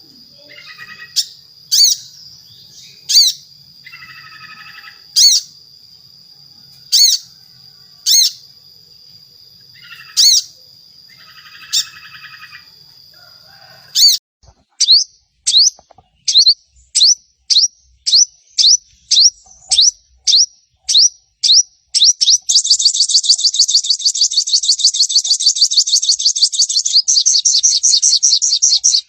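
Sogon (crimson sunbird) calling: sharp downward-slurred chirps at intervals over a steady high tone, then, about halfway, quicker chirps that run into a fast rattling chatter for the last several seconds.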